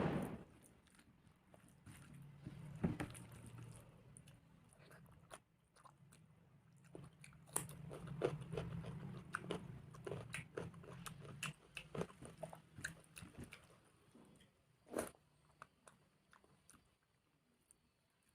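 Close-miked chewing and biting of rice, dal and crisp vegetable fries: wet mouth clicks and crunches coming in irregular runs, with a louder bite at the start and another about 15 seconds in.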